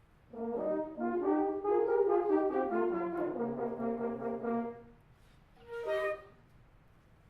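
Concert wind band sight-reading, with brass to the fore: a held, swelling phrase of chords that ends about five seconds in, followed a moment later by a single short chord.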